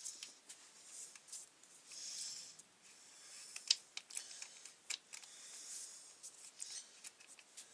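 Hand tools working on a strimmer's bolts and parts: irregular sharp clicks and brief scraping, with no steady running sound.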